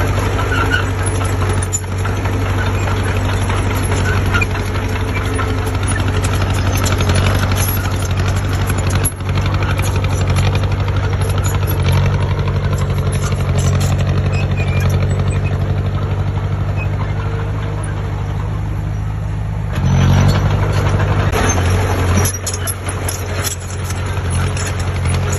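Heavy diesel engine of construction machinery running steadily, with a brief rise in engine sound about twenty seconds in.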